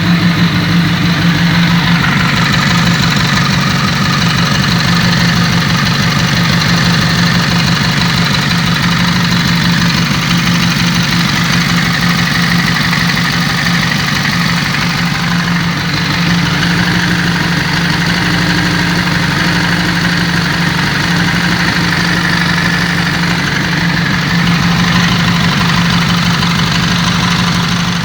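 Kawasaki ZZR 400's inline-four engine idling steadily with a clutch-basket rattle, the sign of a worn clutch basket with worn spring seats and a worn central bushing.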